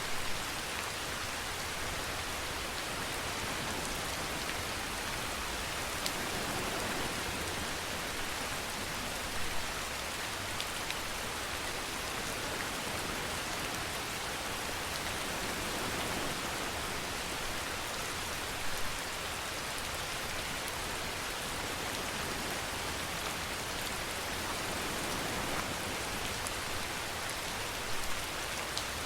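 Steady rain falling on a surface, a dense even hiss with a few louder individual drops hitting now and then.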